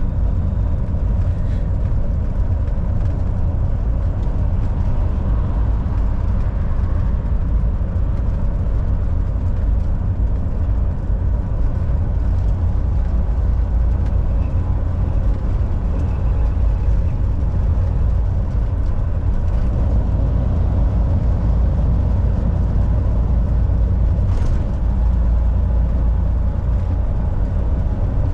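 Volvo VNL 760 semi truck running at highway speed: a steady low engine drone under even tyre and road noise.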